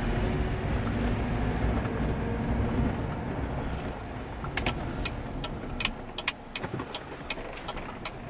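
A pickup truck being driven, its engine and road noise steady for about three seconds and then easing off. Several short sharp clicks come in the second half.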